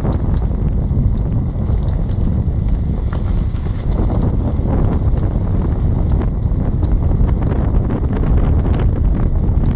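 Ford Fiesta 1.6 on the move, with a steady low road-and-wind rumble and repeated sharp clicks through it, which the owner traces to the right-hand rear wheel and tyre.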